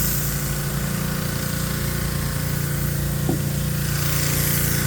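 Pressure washer running steadily: an engine hum under a hiss of spray.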